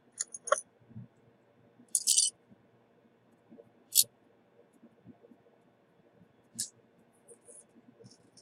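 A few scattered small clicks and taps, the loudest a double click about two seconds in and a sharp tick about four seconds in: tools and parts being handled on a microsoldering bench.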